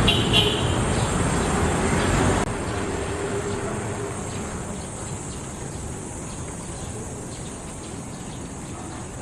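Street-side ambience: a low traffic hum under a steady high insect buzz, with a short bird chirp at the start. The overall level drops suddenly about two and a half seconds in.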